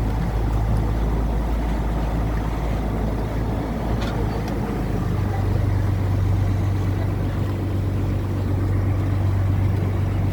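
Boat engine running steadily under way, a low hum whose note strengthens about halfway through.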